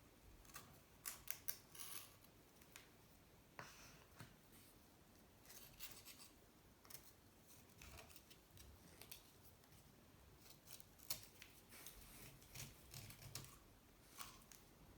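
Short, irregular scrapes and clicks of a hand tool against the aluminium engine cases of a Honda C70, some in quick runs of three or four, with the loudest about a second in and again about eleven seconds in. This is the sound of working over the corroded cases.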